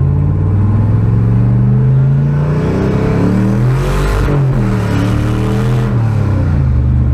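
Turbocharged pickup truck engine accelerating hard under boost, its pitch climbing, with a break and a rush of hiss about four seconds in, then rising again before easing off near the end.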